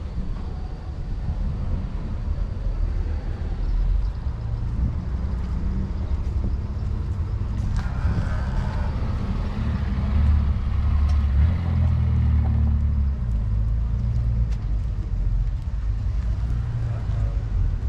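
Car engine running with a steady low rumble, louder for a few seconds around the middle.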